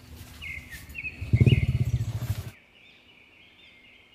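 Birds chirping, with a loud low rumble about a second in that cuts off suddenly; the chirping goes on more faintly afterward.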